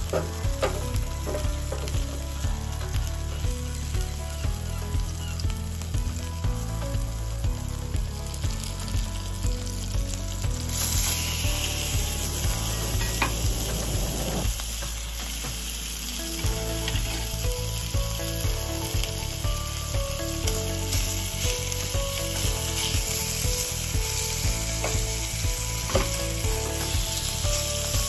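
Sliced steak and red onion rings sizzling in hot oil in a metal roasting tray over a portable butane stove: a steady frying hiss that grows louder and brighter about eleven seconds in.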